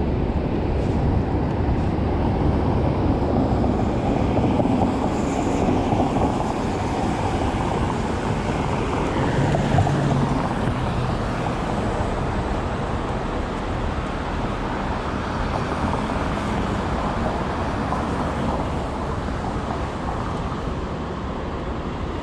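City street traffic noise: a steady wash of passing vehicles, with a louder vehicle passing a few seconds in and another low engine hum about ten seconds in.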